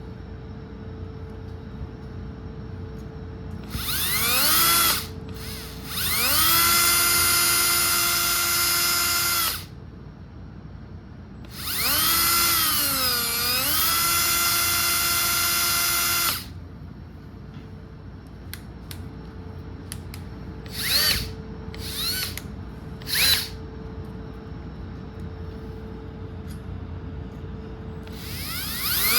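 Small electric drill with a 2.5 mm bit drilling out a rivet: its motor whine starts and stops in three longer runs, the pitch sagging partway through the third as the bit bites, then three short blips near the end.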